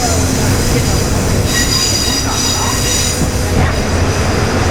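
KiHa 20 diesel railcar running, its engine a steady low hum, with the wheels squealing against the rails in high ringing tones for just under two seconds, starting about a second and a half in.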